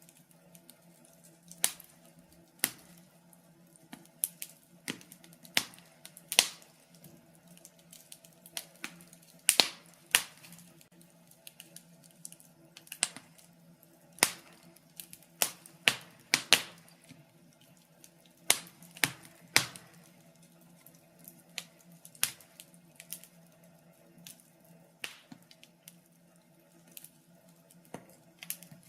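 Logs burning in a fireplace, crackling with irregular sharp pops, several every few seconds, over a faint steady low hum.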